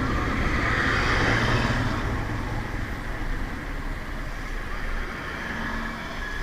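Motorcycle riding through city traffic: steady engine and road noise that grows quieter after about two seconds.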